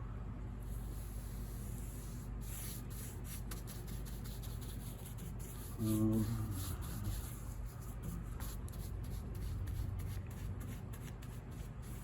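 A brush scrubbing thin shellac into the old finish of a wooden piano case to melt and amalgamate it, making a run of short, dry rubbing strokes that come faster in the last few seconds. A steady low hum runs underneath, and a brief voice-like sound comes about halfway through.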